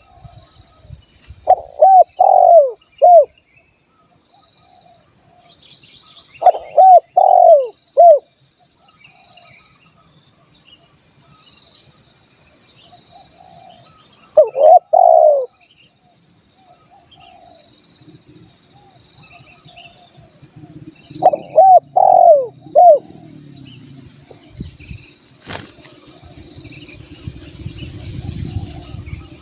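Spotted dove (tekukur) cooing in four phrases of two to four notes each, spaced several seconds apart, used as a lure call for wild doves. Underneath runs a steady high insect drone, and a low rumble builds near the end.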